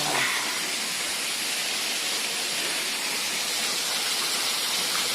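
A small waterfall running, a steady even hiss of falling water.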